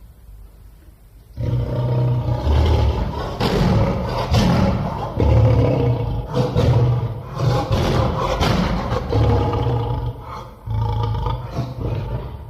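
A big cat roaring and growling: a long run of deep, rough roars that starts about a second and a half in, with a short break near the end.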